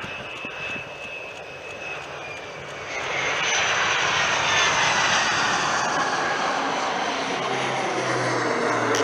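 Boeing MQ-25 Stingray's Rolls-Royce AE 3007N turbofan whining as the aircraft passes close by. About three seconds in the sound grows louder and fuller, and the high whine falls in pitch as it goes past.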